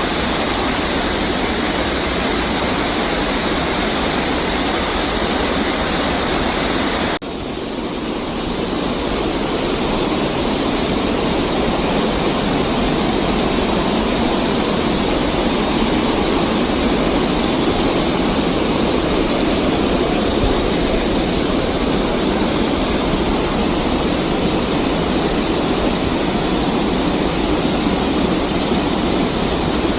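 Steady rush of Nabegataki's wide curtain of water falling about 12 m. It cuts off abruptly about seven seconds in, then comes back slightly quieter and swells again.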